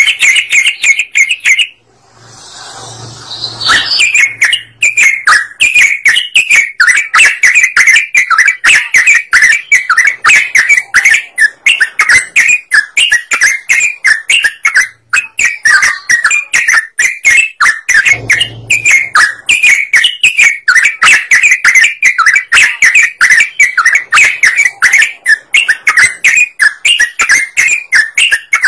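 Sooty-headed bulbul (trucukan) singing loudly and without let-up: a fast run of short chirping notes at much the same pitch, several a second. There is a brief break about two seconds in.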